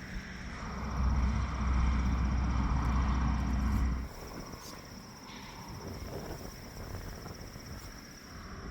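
Steady high chirring of crickets, with a louder low rumble from about a second in that cuts off suddenly about four seconds in.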